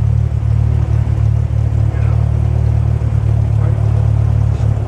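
Cessna 172's piston engine and propeller running with a steady low drone, as heard inside the cabin.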